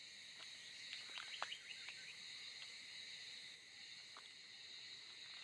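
Faint, steady high-pitched drone of insects, crickets or cicadas, with a few short clicks about a second in.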